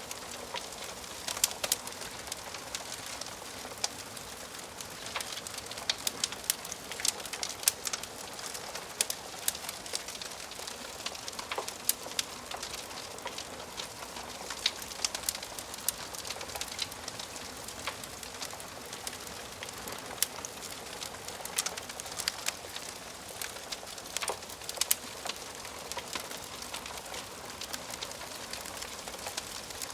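Wood fire burning in a fireplace: irregular sharp pops and snaps of crackling logs over a soft, steady hiss.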